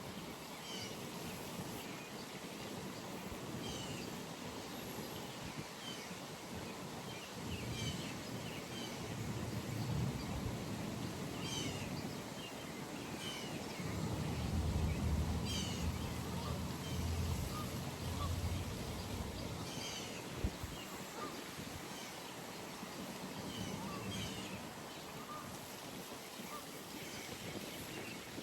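Early-morning pond ambience: a bird gives short chirping calls every few seconds over a steady outdoor hiss, with a low rumble that swells and fades in the middle.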